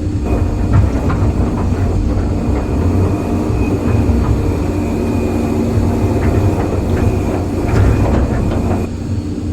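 Excavator working, its diesel engine droning steadily with a thin hydraulic whine, over repeated metallic clanking and knocks.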